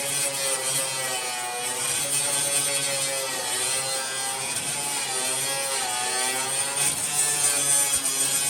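Electric power tool motor running steadily, its pitch sagging and rising again every second or two as it is pressed into the work, over a high hiss.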